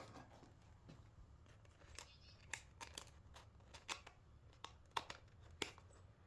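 Faint, sharp plastic clicks and taps as batteries are pressed into a remote control's battery compartment, about a dozen irregular clicks starting about two seconds in.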